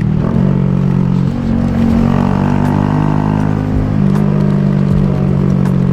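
Honda Grom's small single-cylinder engine running under way at fairly steady revs, its pitch shifting slightly about two seconds in and again about four seconds in.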